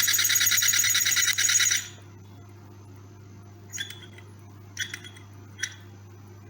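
A small demonstration Stirling engine running with a fast, even rattling buzz that cuts off abruptly about two seconds in. Three light metallic clinks follow, under a faint steady hum.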